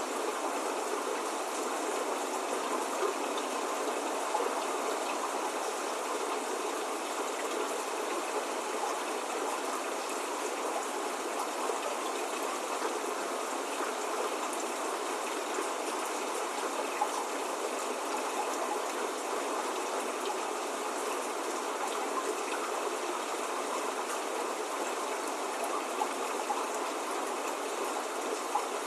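Steady spring rain falling, an even hiss with a few faint drop ticks, with no thunder or birdsong.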